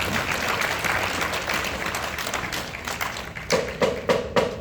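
Audience applauding, a dense patter of many hands clapping, with a few sharper knocks standing out near the end.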